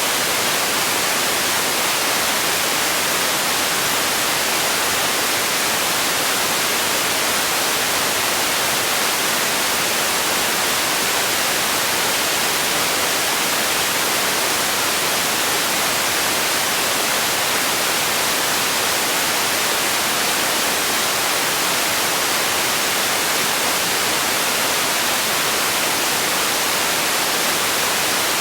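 Steady, unbroken white-noise hiss, even throughout, with most of its energy in the high end and little bass.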